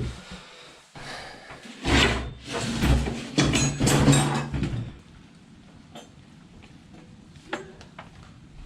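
Old wooden bathroom vanity cabinet being slid and dragged out from the wall, scraping and knocking for a few seconds in the middle, then a few light knocks.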